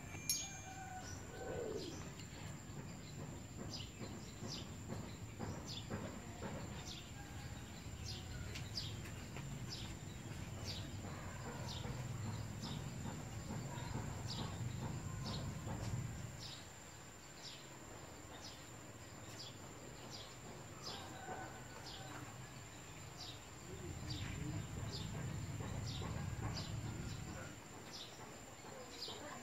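Outdoor rural ambience: a bird chirping over and over, short high chirps about once or twice a second, over a steady thin high whine and a low rumble that comes and goes.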